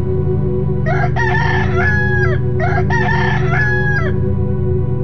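A rooster crowing twice, two long calls about a second and a half each, one right after the other.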